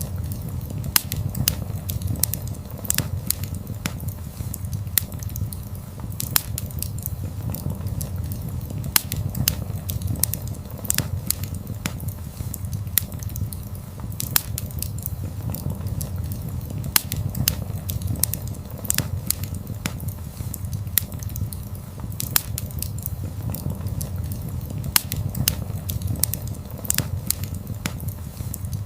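Wood fire burning: a steady low rumble from the flames with frequent sharp crackles and pops from the burning wood, coming irregularly, several a second.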